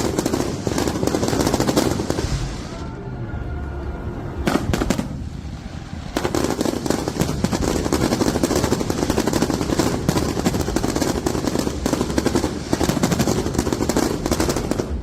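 Fireworks display: a dense, rapid run of crackling and popping firework explosions, almost unbroken from about six seconds in.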